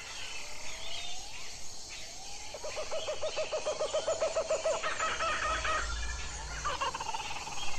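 Bird calls: a rapid run of repeated notes, about ten a second, lasting a couple of seconds, then higher chirps and a longer drawn-out call near the end, with a brief low rumble underneath.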